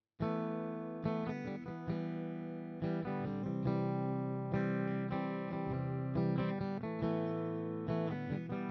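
Harley Benton Telecaster-style kit electric guitar recorded direct through an amp-simulator plugin, playing strummed chords. The guitar comes in suddenly just after the start, with repeated strokes and ringing chords throughout.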